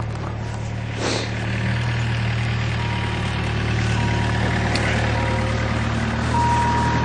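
A vehicle engine idling steadily. From about halfway on, a steady high electronic tone sounds on and off, like a beep or warning chime.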